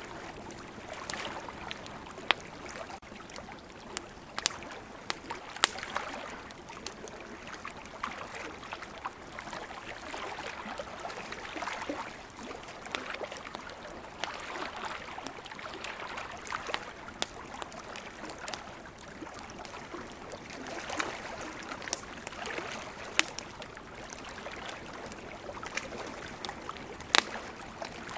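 Wood campfire crackling, with frequent sharp pops at irregular intervals, over a steady rushing wash of ocean waves.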